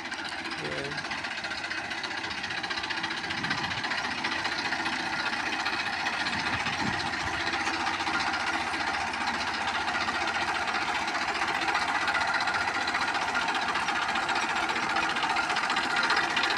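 TAFE Massey Ferguson 1035 DI tractor's three-cylinder diesel engine running steadily, slowly growing louder.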